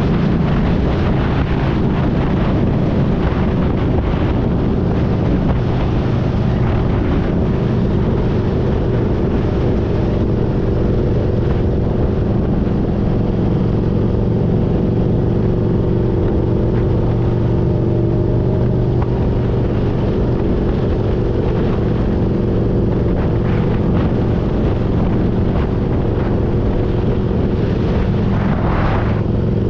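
Motorcycle engine running at a steady cruising speed, with wind noise on the microphone.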